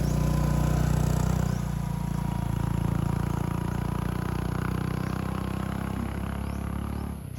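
An engine running steadily, its pitch shifting a little about a second and a half in, then cutting off abruptly near the end.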